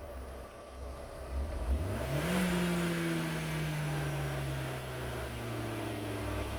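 Opel Corsa D's 1.2-litre A12XER four-cylinder petrol engine starting about two seconds in. Its speed rises quickly in a brief flare, then slowly falls back as it settles toward idle.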